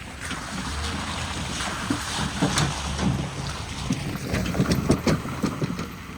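A truck carrying a big tractor passes close by: a steady low engine rumble with tyre noise, and a run of knocks and rattles through the middle of the pass.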